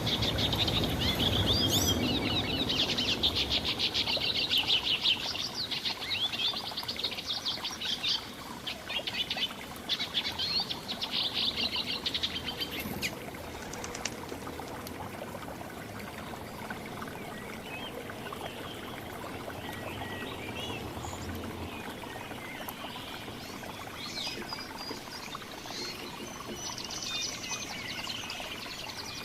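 Small birds chirping and twittering: a dense, rapid chatter of high calls for about the first twelve seconds, then fainter, scattered chirps.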